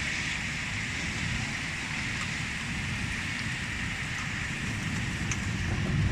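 Steady rain hissing, with a low rumble of a vehicle underneath, heard from inside a car.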